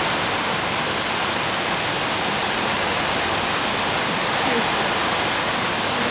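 Sudden heavy downpour: a steady, dense hiss of torrential rain that holds at the same level throughout.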